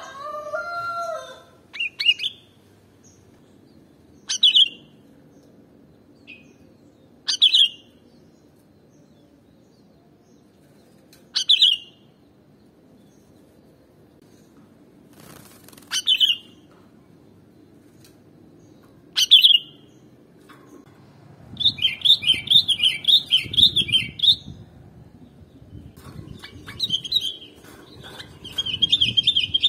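Sooty-headed bulbul (kutilang) calling: a single short, sharp call every three to four seconds, then a fast run of wavering chattering notes about 22 s in and again near the end. A rooster's crow trails off in the first second.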